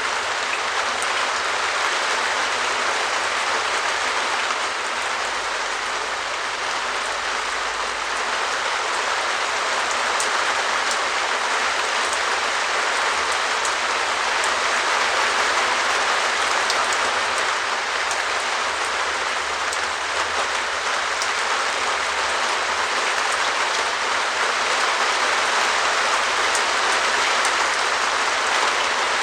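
Steady rain pattering on a translucent perspex shed roof, a dense even hiss of drops with faint sharper ticks.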